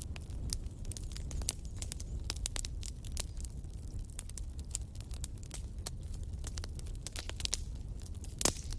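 Wood campfire crackling: irregular sharp pops and snaps over a steady low rumble of the flames, with one louder pop near the end.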